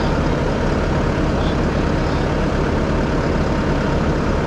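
Heavy-equipment diesel engine running steadily and loud, close to the microphone.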